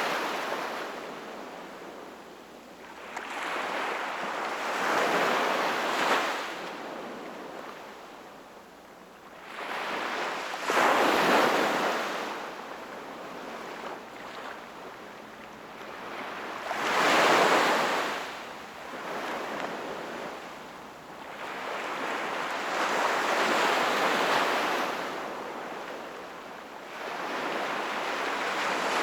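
Sea waves breaking and washing on the shore, one surge every five or six seconds, each swelling and then fading back.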